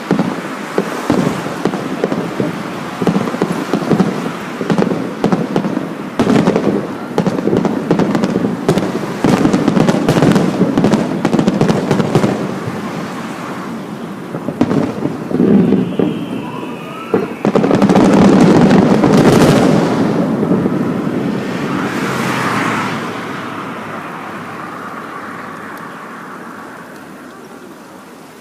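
Fireworks display: aerial shells bursting in quick succession, each bang followed by a rumbling echo. A short whistle sounds about sixteen seconds in, then a dense, loud barrage of bursts and crackle follows and fades away over the last several seconds.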